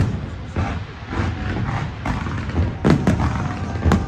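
Aerial fireworks shells bursting: a string of sharp booms, roughly one a second, over a steady crackle from the display.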